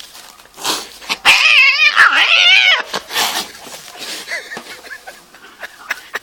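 Cats fighting: one loud, screeching, wavering yowl lasting under two seconds about a second in, with short noisy clicks and rustles around it, followed by quieter yowls.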